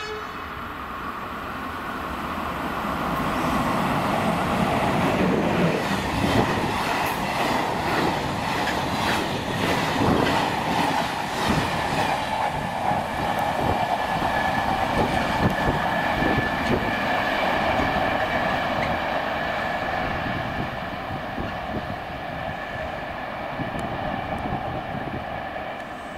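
Train hauled by an electric locomotive passing close by, building up to a loud rumble over the first few seconds. Its wheels clatter rhythmically over the rail joints, then a steady whine carries on as the wagons roll past and the sound slowly eases off.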